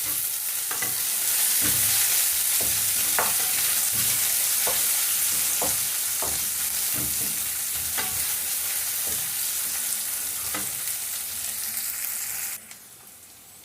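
Onions and peppers sizzling in a frying pan while a utensil stirs them, knocking against the pan every second or so. The sizzling drops away abruptly near the end.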